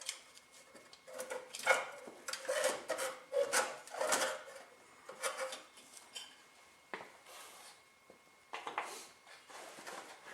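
Metal hand tools and engine parts clinking and scraping in an irregular run of short clicks and rubs, thickest in the first six seconds, with a few more clinks near the end.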